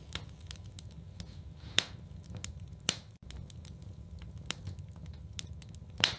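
Wood fire in a fireplace crackling, with sharp pops scattered irregularly over a low steady rumble. The loudest pops come a little under two seconds in, about three seconds in, and near the end.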